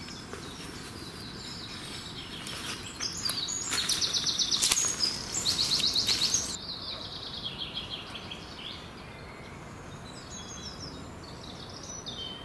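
Woodland birds singing: a loud, fast, trilling phrase of rapidly repeated high notes from about three to six seconds in, then softer high chirps and twitters.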